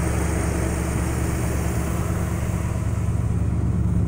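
Chevrolet 350 crate small-block V8 idling steadily through Magnaflow dual exhaust.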